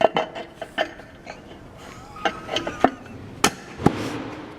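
Irregular metallic clicks and knocks of hand tools and parts being handled on an engine, with two sharper knocks near the end.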